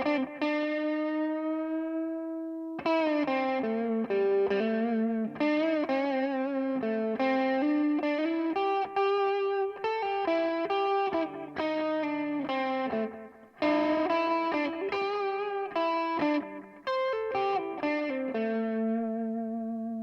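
Electric guitar played through a Donner Yellow Fall delay pedal: a melodic line of single notes. The first note is held for over two seconds and bent slightly upward, and the rest change about every half second.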